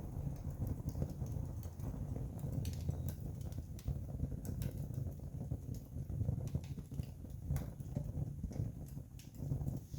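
Wood campfire crackling: scattered sharp pops and snaps at irregular intervals over a steady low rumble.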